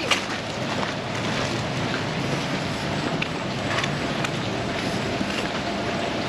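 Heavy tropical rain pouring down, a steady hiss with scattered sharp drop splats.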